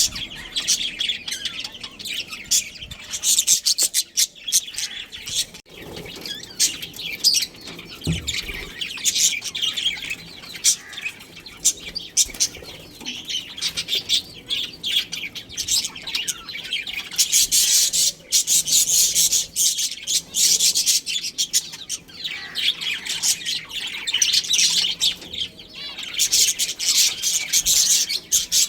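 Budgerigars chirping and chattering continuously, many quick high chirps overlapping, with louder busy stretches a little past halfway and near the end.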